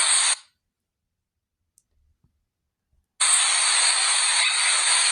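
A short burst of hissing noise, a pause of near silence, then steady loud hissing noise that starts about three seconds in and keeps going.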